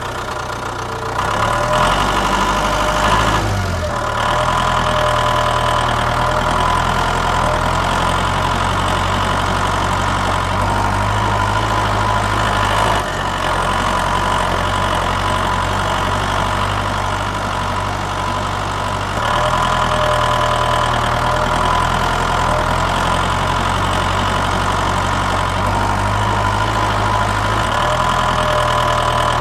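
Engine idling steadily, a continuous hum that changes in tone abruptly twice, about a third and two-thirds of the way through.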